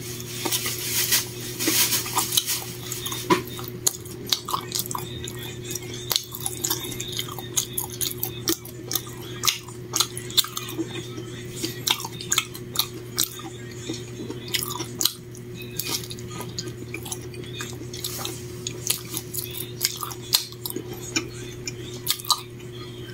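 A person chewing and biting food, with many short clicks and clinks of tableware, over a steady low hum.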